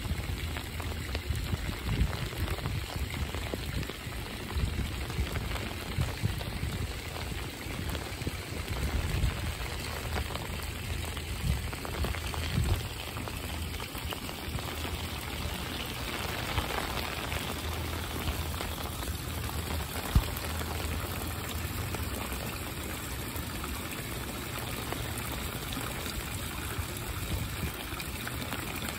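Steady rain falling on wet brick paving and trees, an even hiss throughout. Irregular low rumbles come and go during the first half, and there is a single sharp knock about twenty seconds in.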